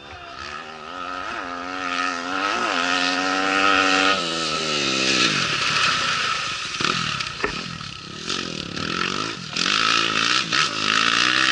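Rally motorcycle engine at high revs, getting louder as it approaches and shifting up through the gears. About four seconds in its pitch falls as it passes. In the second half it revs again with rises and dips in pitch, over a loud hiss of tyre and dirt noise.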